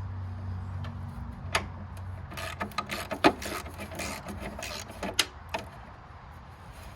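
Scattered clicks and knocks of hand work on the garden tractor, parts and tools being handled, the loudest knock about three seconds in. Under them a low steady hum fades after the first couple of seconds.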